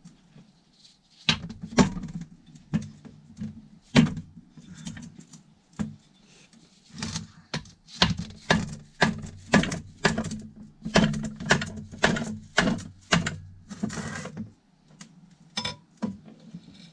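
Irregular sharp metal knocks and clunks, several a second through the middle stretch: hammer blows on the crankshaft of a Kawasaki KD175 two-stroke engine, struck to drive out a stuck part.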